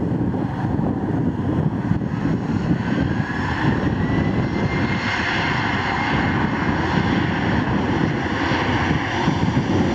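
Aircraft engine noise: a steady low rumble, with a whine that rises in pitch between about three and five seconds in and then holds.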